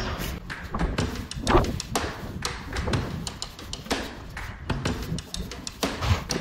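A run of irregular light knocks, taps and thuds, as of hay nets and a wheelbarrow being handled.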